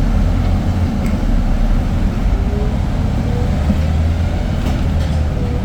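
Irisbus Citelis 10-metre diesel city bus running, a steady low drone with a faint whine that drifts slightly in pitch.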